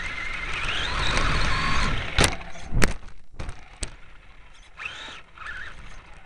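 Radio-controlled Losi Desert Truck driving, its motor whine rising in pitch as it speeds up. A few sharp knocks follow about two to four seconds in, then a short whine again near the end.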